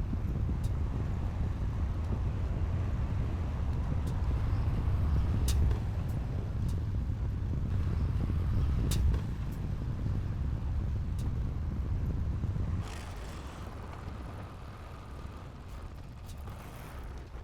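Heavy diesel earthmoving machinery running with a low, steady rumble, with a few sharp metallic clanks. About thirteen seconds in, the engine sound drops to a quieter level.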